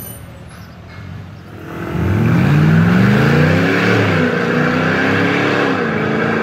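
Mansory-tuned Mercedes G500 V8 accelerating away. Its engine note comes in loud about two seconds in and climbs in pitch, then dips briefly near the end before holding steady.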